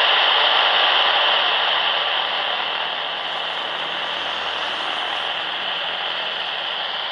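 Jet airliner's engines at takeoff power: a loud, steady roar with a strong hissing whine, a little louder over the first couple of seconds.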